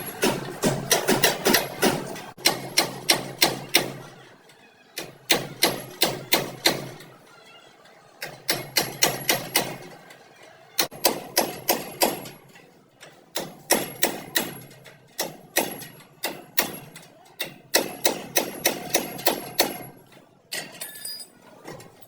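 Hammer blows on car-body sheet metal during dent work: quick, sharp strikes about five a second with a light metallic ring, in runs of a few seconds broken by short pauses.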